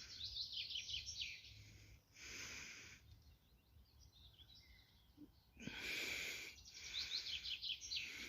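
A songbird singing: quick runs of short, falling high chirps, heard near the start and again toward the end. Between them come two brief rushes of noise.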